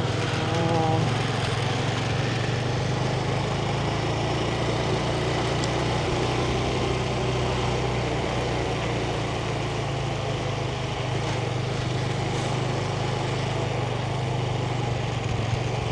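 A 125cc Yamaha motorbike's engine running steadily while riding, heard from the saddle as an even low drone.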